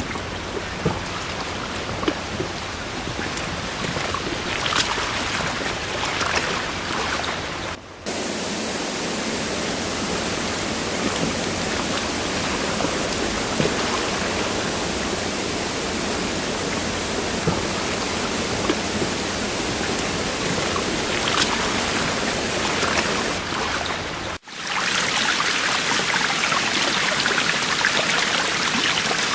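Running water of a forest stream, a steady rushing with small splashes. It breaks off for a moment twice, about 8 seconds and 24 seconds in, and carries on with a slightly different tone each time.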